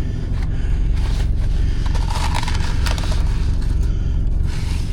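Steady low drone of a diesel engine running on the truck, with irregular scraping and rustling from cookware and food packaging being handled, and a few sharp clicks around the middle.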